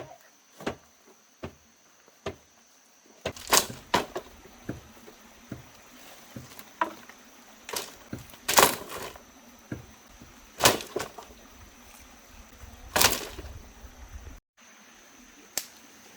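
Irregular knocks and bangs of wood being struck and handled, a dozen or so sharp hits spaced a second or more apart. The loudest come about a quarter, halfway and four-fifths of the way through.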